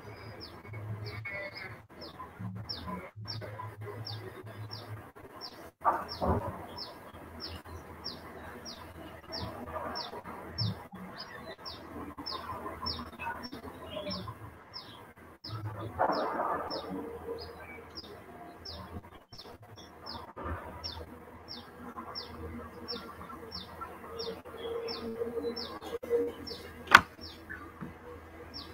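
A bird chirping over and over at a steady pace, about one short, falling chirp every three-quarters of a second, over low background noise, with a sharp click near the end.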